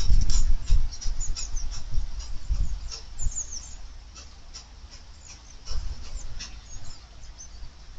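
Small garden birds chirping in short, high calls, over a low rumble that fades away over the first few seconds.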